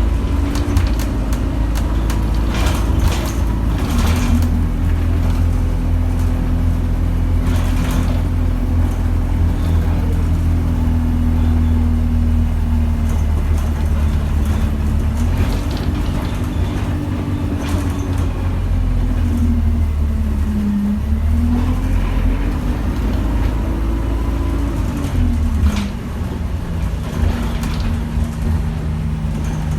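Bus engine and drivetrain running as the bus drives, heard from inside the cabin. There is a steady low rumble with an engine tone that falls and rises several times in the second half as the bus slows and pulls away again. Occasional short rattles or knocks come through.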